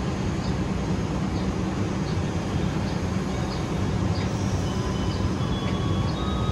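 Diesel-hauled passenger train departing: a steady low engine rumble, with faint high squealing tones coming in about four seconds in.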